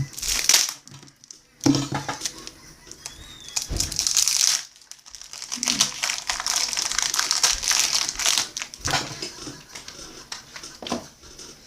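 Baseball trading cards being handled and slid against one another, in irregular rustling bursts broken by short pauses.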